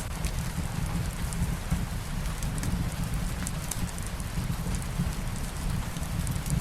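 Steady rain, with scattered small crackles and pops from a wood fire throughout.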